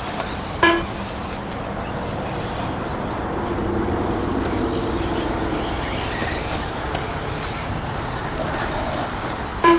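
Electric RC buggies racing round the track: a steady mix of motor and gear whine and tyre noise, with one buggy's whine swelling and fading about four seconds in.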